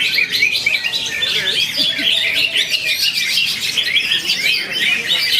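Green leafbird (cucak hijau) singing a rapid, unbroken run of varied chirps and trills.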